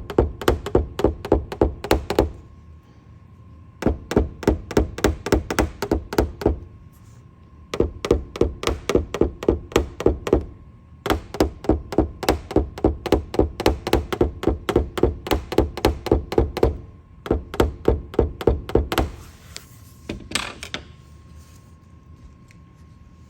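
Rapid, even tapping on a car's sheet-metal roof panel with a paintless dent repair hammer and knockdown tool, about six taps a second in runs of a few seconds with short pauses between. This is the tap-down stage of glue-pull hail dent repair, levelling the high spots around the pulled dent.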